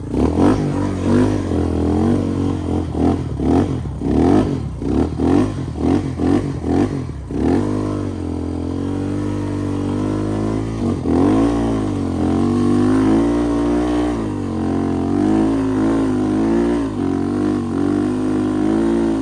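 Off-road motorcycle engine revving in quick repeated throttle surges, then running more steadily with its pitch rising and falling as it rides.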